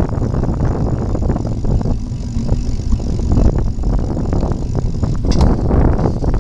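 Wind buffeting the microphone of a camera on a moving bicycle, a loud gusty rumble, with a short click a little after five seconds in.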